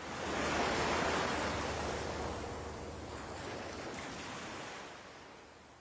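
A rush of noise like surf, swelling in suddenly out of silence, loudest in the first couple of seconds and then slowly fading away.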